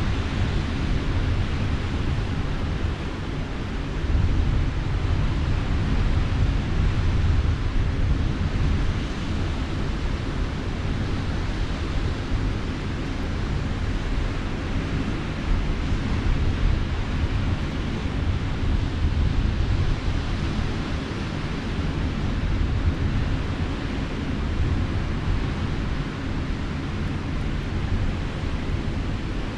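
Wind rumbling on the microphone over the steady wash of sea surf, rising and falling slowly in level.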